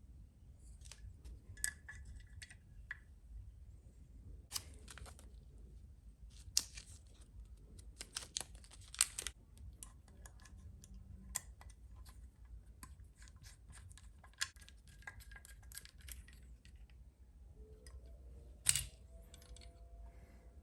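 Scattered small clicks, ticks and brief rustles of hands handling and fitting small parts of an RC excavator kit, with a few sharper clicks standing out.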